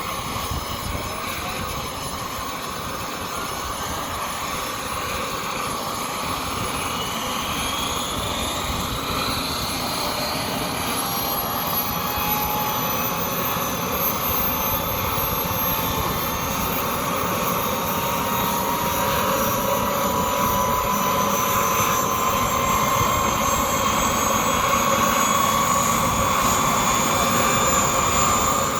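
Turbine engine and rotor of a giant-scale RC Bell 429 helicopter running, with a steady whine that slowly rises in pitch and grows louder as it spools up.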